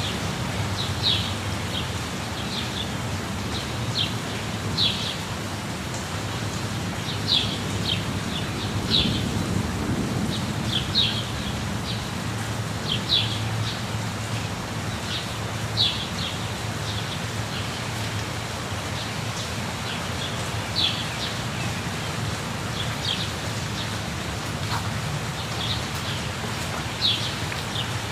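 Steady rush of falling water, a waterfall, with a bird giving short high chirps every second or two over it.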